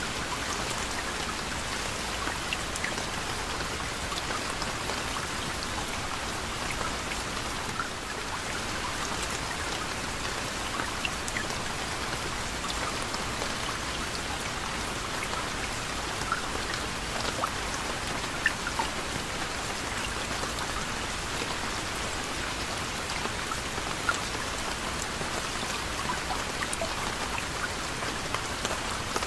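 Steady gentle rain: an even hiss of rainfall with many separate drops pattering on a surface.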